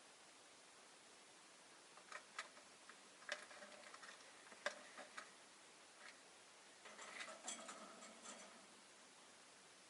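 Faint, scattered clicks and taps from rosy-faced lovebirds moving about their cage. A handful come about two to five seconds in, and a denser little cluster near the end, over a faint steady hiss.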